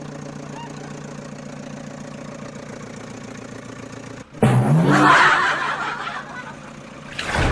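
Vehicle engine running steadily at idle. About four seconds in the sound cuts off, then the engine revs up in a quick rising pitch with a loud rushing noise and settles back. Another loud burst comes near the end.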